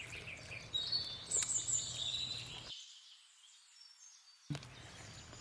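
Birds chirping high over a faint outdoor background hum, most clearly in the first half. The background drops out for about two seconds in the middle.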